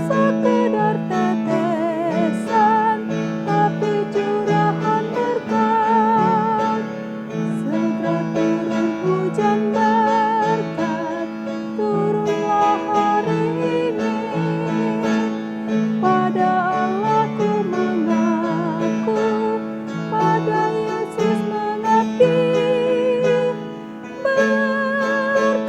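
A woman singing a hymn with vibrato, accompanied by piano.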